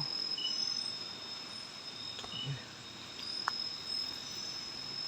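Night forest insects chirring: a steady high-pitched trill with short chirps repeating about once a second, and a single sharp click about three and a half seconds in.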